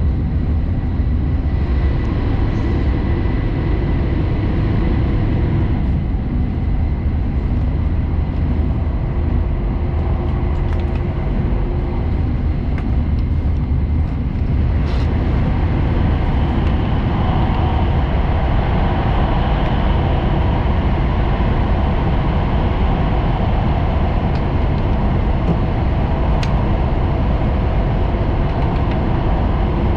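Cabin noise of a Hayabusa Shinkansen train running at speed: a steady low rumble with faint humming tones, its character changing about halfway through.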